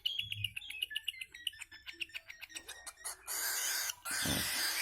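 Small pet bird chirping in a rapid run of short, high calls mixed with quick clicks, for about three seconds; then it stops, leaving a steady hiss and one brief low sound near the end.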